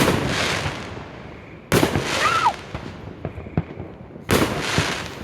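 Fireworks exploding: three loud booms, at the start, nearly two seconds in and just over four seconds in, each trailing off in a rumble, with smaller pops and cracks in between.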